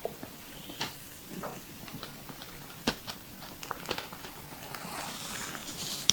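Olive-oiled hands kneading a bare belly: irregular wet clicks, smacks and squelches as skin and oil are pressed and released, with one sharper smack about halfway through.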